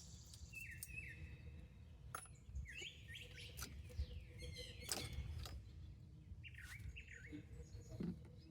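Small birds chirping in repeated short phrases, with a few sharp clicks from parts being handled around 2, 5 and 7 seconds in.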